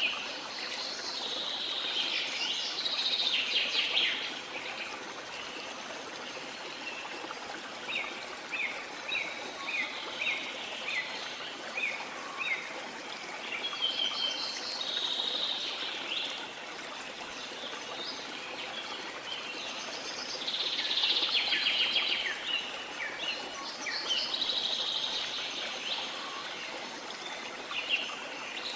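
Steady rush of a waterfall with several birds calling over it. Partway through, one bird gives a run of short, quick downward-sliding notes, about two a second.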